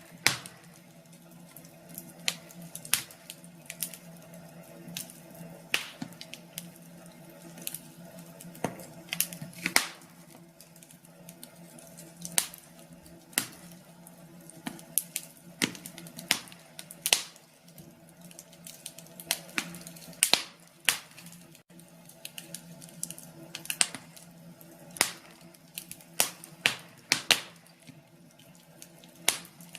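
Wood fire crackling, with irregular sharp pops and snaps several times every few seconds over a faint steady hum.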